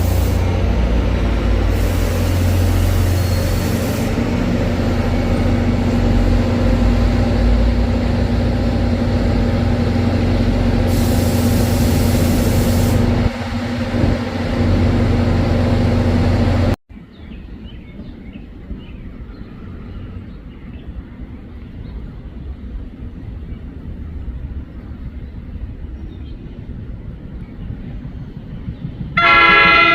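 Diesel locomotive running steadily beside the platform, with three short bursts of air-brake hissing. About halfway through the sound cuts to quieter background, and near the end a train horn starts to sound.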